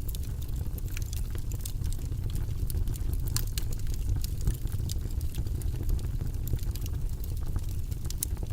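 Wood fire burning in a fireplace: a steady low rumble of the flames with frequent sharp crackles and pops from the burning logs, a few louder snaps around the middle.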